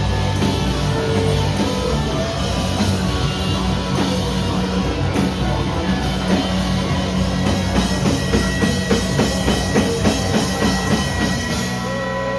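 Rock band playing with a full drum kit and distorted guitar, with hard, regular drum hits. Near the end the drums and bass drop out, leaving held tones ringing.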